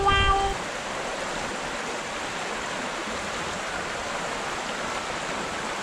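Fast-flowing shallow river rushing steadily over rocks, an even, unbroken roar of water. A short steady tone sounds in the first half second.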